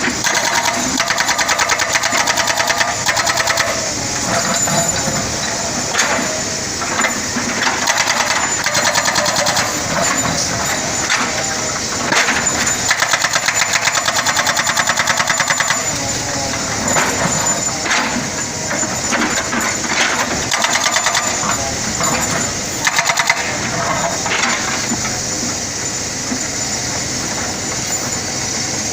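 A toy excavator's small motor and gears whirring with a fast rattle, rising and falling in level.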